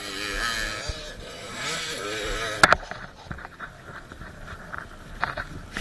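Motocross bikes revving on the track in two rising and falling swells, followed by a sharp loud click and a few faint ticks.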